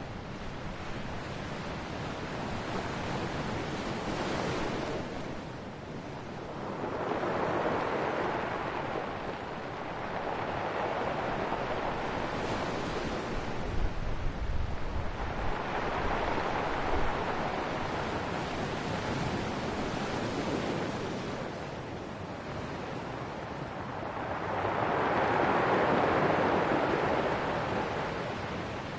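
Ocean waves breaking and washing on the shore, a steady hiss that swells and ebbs with each wave every six to nine seconds or so; the biggest surge comes near the end.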